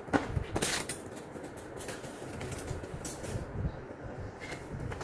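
Handling noises from unpacking a TV: scrapes, rustles and light knocks as the packaging and parts are moved, with a louder scrape about half a second in and others around three and four and a half seconds.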